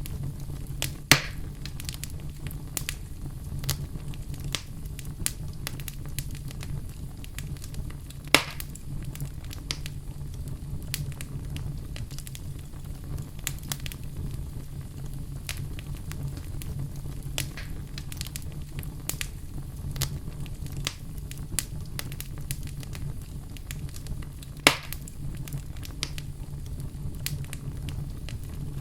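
Wood fire burning in a fireplace, crackling with frequent small snaps and three louder pops, about a second, eight seconds and twenty-four seconds in, over a steady low rumble.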